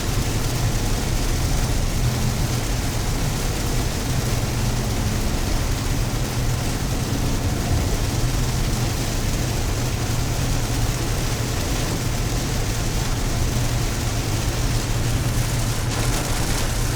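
Steady road noise inside a car driving in the rain: a low hum of engine and tyres on a wet road, with the hiss of rain and spray on the car.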